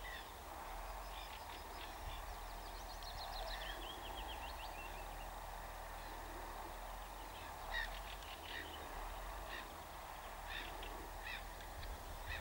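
Wild birds chirping and calling in short, scattered notes, with a quick run of falling notes a few seconds in, over a low steady rumble.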